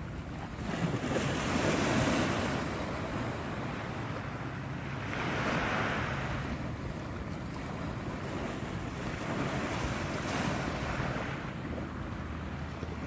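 Waves washing ashore, the surf swelling and fading about every four to five seconds, with wind buffeting the microphone.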